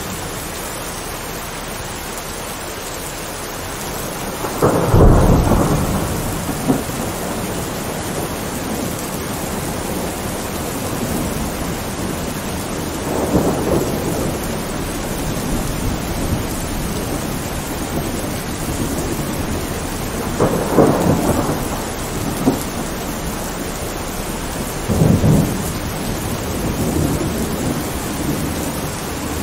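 Thunderstorm: rain falling steadily with four rolls of thunder. The loudest comes about five seconds in, and the others fall near the middle and toward the end.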